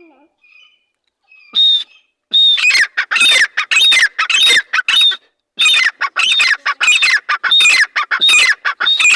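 Teetar (francolin) calling loudly: a long run of harsh, ringing calls repeated over and over, starting about one and a half seconds in, with each call sliding down in pitch.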